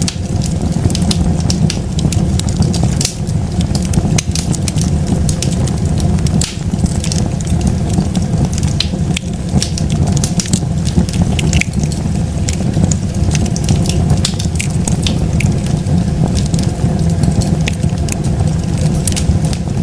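Wood bonfire crackling, with frequent irregular sharp pops over a steady low rumble.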